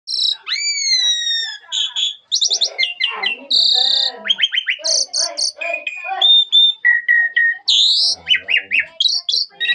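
Asian pied starling (jalak suren) singing a long, varied song of clear gliding whistles, rapid repeated notes and harsh chattering calls, packed with phrases mimicked from other birds.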